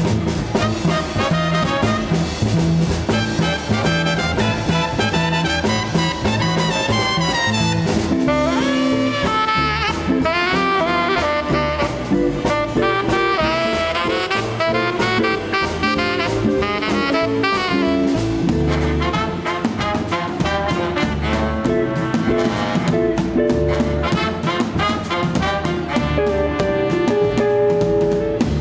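Live swing band playing: a horn section of saxophone, trumpet and trombone over guitar, bass and drums, with a steady swing beat.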